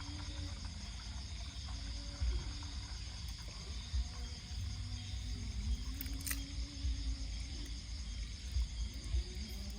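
Steady high chirring of insects such as crickets, over a low fluctuating rumble.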